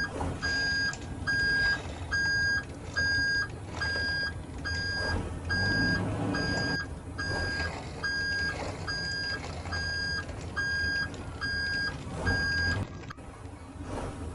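Heavy truck reversing alarm beeping in a steady repeating pattern, about three beeps every two seconds, over a low engine rumble. It cuts off suddenly near the end.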